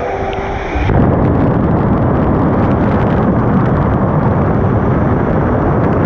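A strong blast of air buffeting the camera's microphone as a loud, steady rushing roar that starts suddenly about a second in. The camera is being held in the airflow to try to blow something off the lens.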